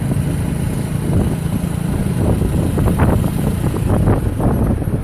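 Motorcycle engine running steadily while riding, with a dense low rumble of wind and road noise on the phone's microphone. Uneven crackling noise comes in over the second half.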